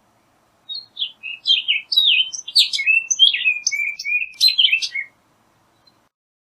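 Orchard oriole singing: one rapid, varied song of quick sliding whistled notes, starting about a second in and lasting about four seconds.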